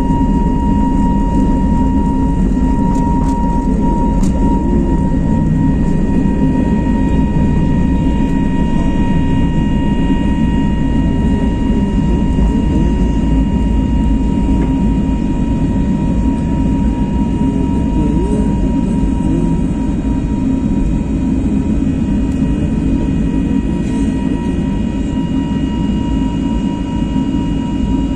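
Airbus A321neo's CFM LEAP turbofan engines running steadily: a dense low rumble with a steady high whine over it, easing off slightly near the end.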